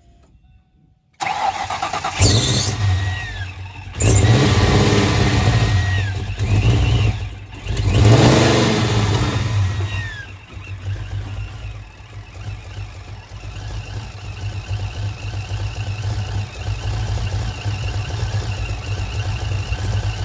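Vortech-supercharged 5.0 V8 of a 1995 Mustang GT starting for the first time after three years in storage, on fresh spark plugs and oil. It catches about a second in and is revved three times, with a high whine falling away as each rev drops, then settles into a steady idle.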